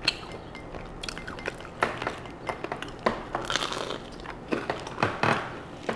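Close-up eating sounds of lobster claw meat dipped in garlic lemon butter being bitten and chewed: scattered wet mouth clicks, with a longer wet chewing stretch about halfway through.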